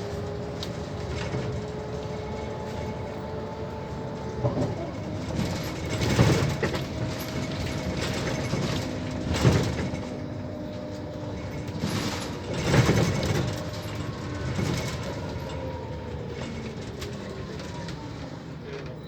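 2005 Scania CL94UB city bus on the move, its ZF automatic gearbox howling: several whining tones that shift in pitch, dropping about four seconds in and falling slowly again near the end as the bus slows. Three loud rattling thumps come through over the running bus.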